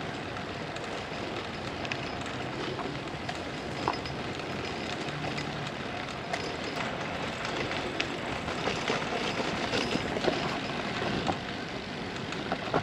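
Brompton folding bike rolling along a dirt trail: a steady rush of tyre noise, with small clicks and rattles that grow more frequent in the second half.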